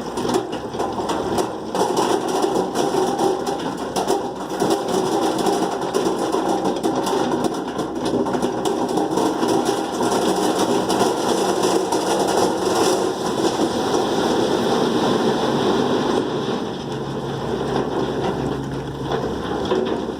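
Dump truck unloading stone: its engine running under a steady, dense rattle of many small clicks, slightly easing in the last few seconds.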